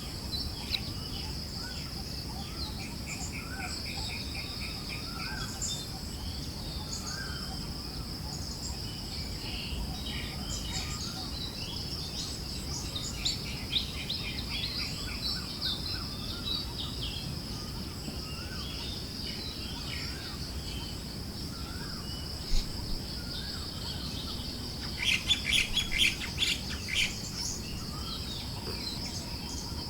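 Forest birds chirping and calling in short scattered phrases over a steady, high insect drone and a soft low rush of wind. Near the end comes a burst of rapid chattering calls.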